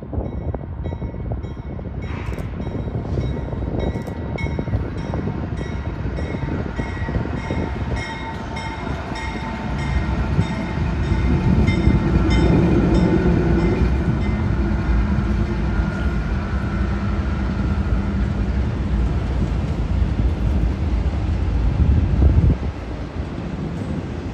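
Union Pacific freight train rolling past: a steady rumble of cars on the rails, growing louder about ten seconds in as the diesel locomotives go by.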